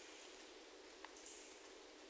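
Quiet forest ambience, close to silence, with one brief, faint high bird note about a second in.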